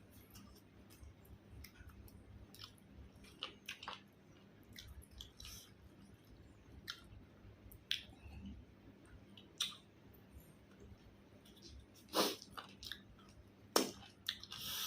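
A person chewing food close to the microphone, with irregular wet clicks and small crunches, and two louder bites near the end.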